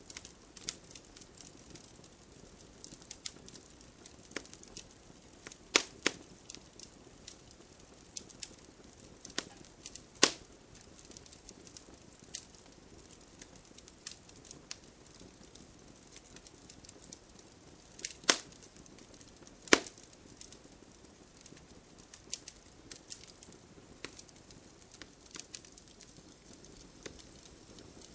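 Wood fire crackling in a fireplace: irregular sharp pops and snaps over a soft steady hiss, with a few louder pops about six, ten, eighteen and twenty seconds in.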